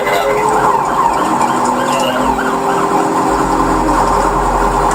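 Police car siren wailing, its pitch sweeping up and down, over a steady low hum.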